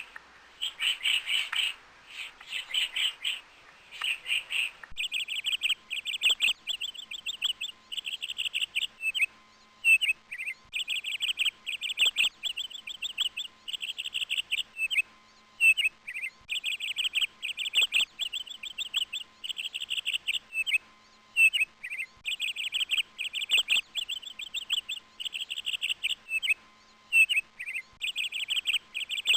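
A bird singing in rapid trilled chirping phrases, each about a second long or less, repeated over and over with short gaps and the odd short gliding note between them.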